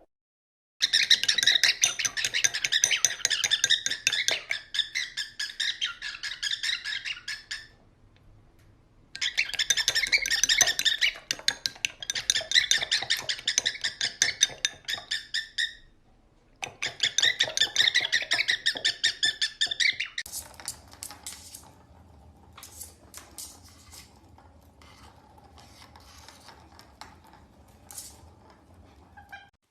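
Pet parrot giving rapid, repeated high-pitched chirping calls in three stretches, then quieter scattered sounds after about twenty seconds.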